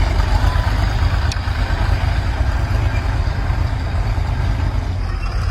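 Heavy diesel engine running steadily with a deep rumble.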